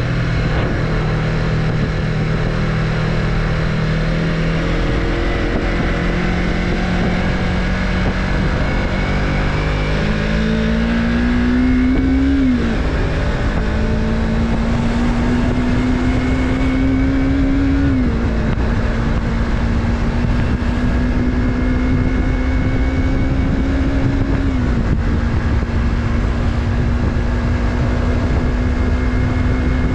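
Stock-exhaust 2020 Yamaha MT-03 321 cc parallel-twin running steadily, then accelerating through the gears. The engine note rises and drops sharply at three upshifts, about twelve, eighteen and twenty-five seconds in, then holds steady.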